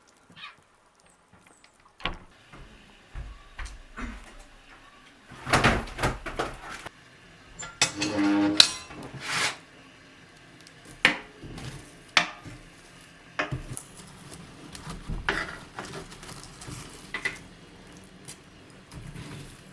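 Irregular knocks and clinks of household objects being handled, starting about two seconds in, with the busiest, loudest stretch a few seconds later.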